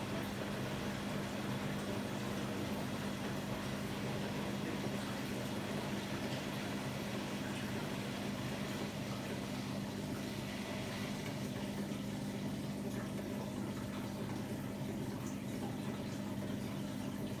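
Hotpoint-Ariston AQD972F washer-dryer running, with water flowing in the machine and a steady hum.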